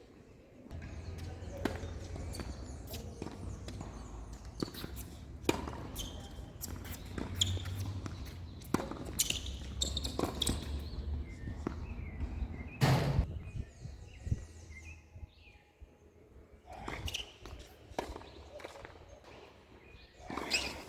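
Tennis ball being struck and bouncing on a court, a string of irregular sharp knocks with footsteps, over a low rumble that fades out about two-thirds of the way through. The loudest knock comes about 13 seconds in.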